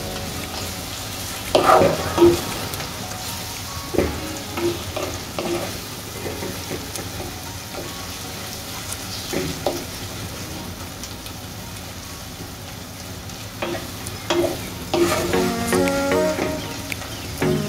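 Sliced onions and spice pastes frying in oil in a nonstick pan, sizzling steadily while a spatula stirs them, with short scrapes and knocks of the spatula against the pan, several in a row about two seconds in and again near the end.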